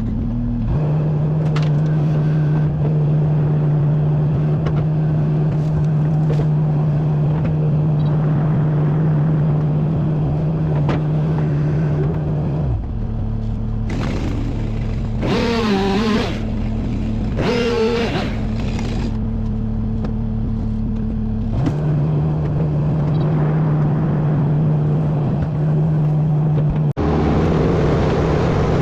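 Large wood chipper's engine running steadily with a constant hum, the sound shifting abruptly a few times. Twice in the middle the pitch wavers up and down as the chipper takes on wood under load.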